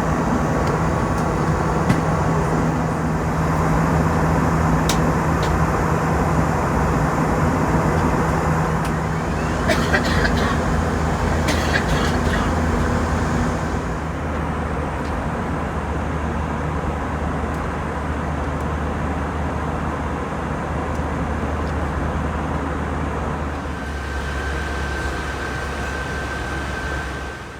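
Airbus A320 cabin noise: a steady rumble of jet engines and rushing air with a low hum, and a few short clicks near the middle. The hum changes about halfway through, and the sound cuts off sharply at the end.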